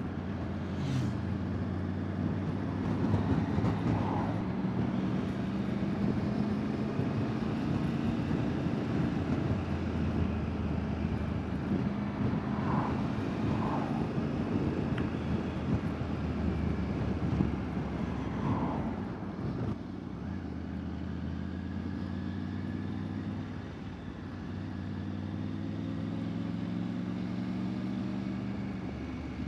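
Motorbike engine running under way, heard with wind and road noise through a helmet-mounted wireless mic. About twenty seconds in it eases off and goes quieter, then the engine note rises steadily near the end as the bike picks up speed.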